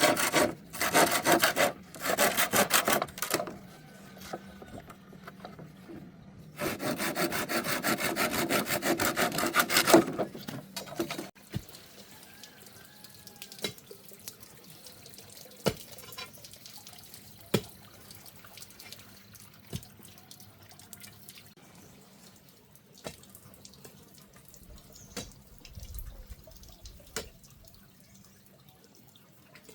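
Wood being hand-sawn in rapid, even back-and-forth strokes, in two bouts. About ten seconds in, the sawing stops and only faint scattered knocks and taps remain.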